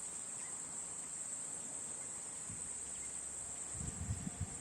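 Insects chirring in one steady, unbroken high-pitched drone, with a few brief low rumbles near the end.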